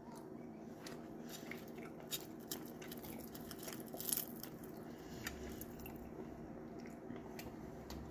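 Close-up eating sounds of a meal of crisp pan-fried round scad (galunggong) and rice eaten by hand: chewing and biting with scattered small crunchy clicks. There is a louder crackle about four seconds in.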